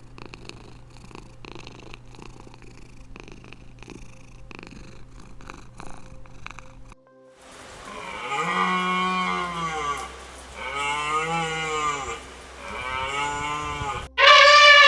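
Faint scattered clicking for about the first half, then a cow mooing three times, each moo a long call about two seconds long that rises and falls in pitch.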